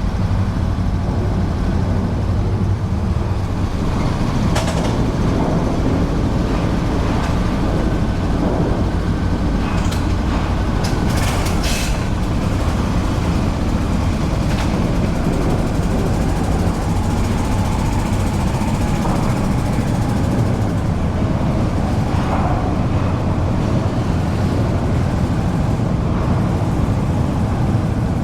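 Yamaha SR400 single-cylinder motorcycle engine running steadily while riding, with road and wind noise, and a few short clicks about ten seconds in.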